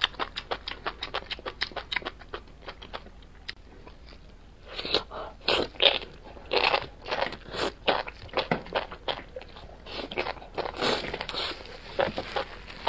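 Close-miked chewing of spicy enoki mushrooms: rapid crunchy, wet clicks. After a short lull about four seconds in come louder bites as a bundle is taken off a skewer, then the chewing clicks resume.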